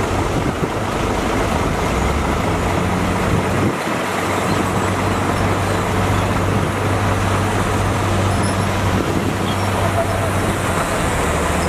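Diesel engine of heavy earthmoving machinery running, a steady low drone whose pitch shifts slightly a few times.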